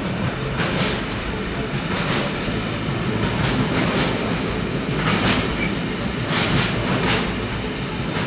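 A train running past on the tracks, a steady rumble with its wheels clacking irregularly over the rails.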